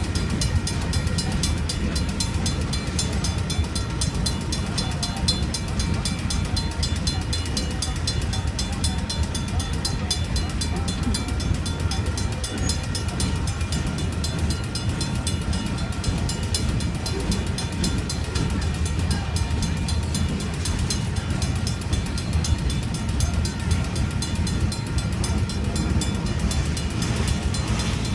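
Union Pacific freight train rolling through a grade crossing: a steady low rumble of wheels on rail. Over it the crossing's Safetran mechanical bell rings quickly and without a break.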